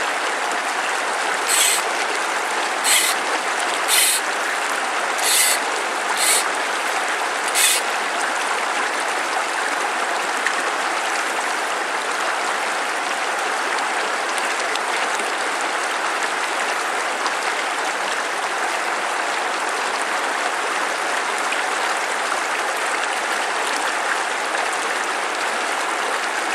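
Stream water rushing over rocks, a steady, even rush. In the first eight seconds it is broken by six short, sharp high-pitched hisses.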